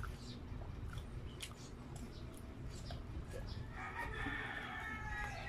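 Wet chewing clicks and lip smacks of someone eating pizza close to the microphone. About four seconds in, a rooster starts a long crow.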